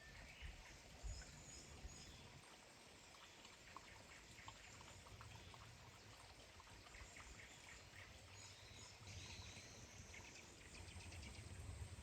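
Near silence: faint forest ambience with a soft hiss and a few faint, high bird chirps.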